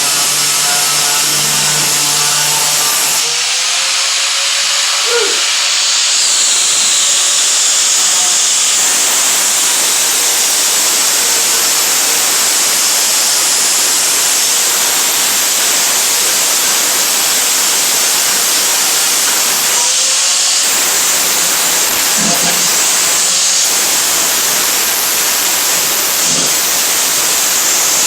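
Electric grinder grinding rust off the steel of a rusty truck bed: a steady hiss of abrasive on metal.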